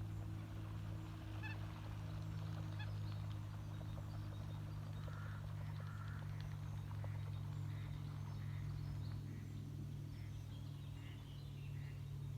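Waterfowl calling on the lake: a run of short, repeated calls, about one or two a second, starting about five seconds in, over a steady low hum.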